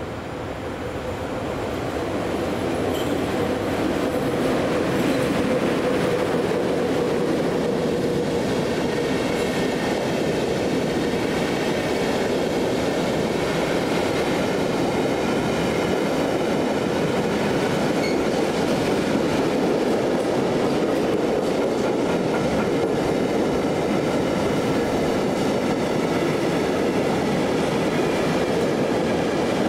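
Freight train of empty intermodal container flat wagons running past on the track, the wheels rolling on the rails. It gets louder over the first few seconds as the train draws level, then holds steady.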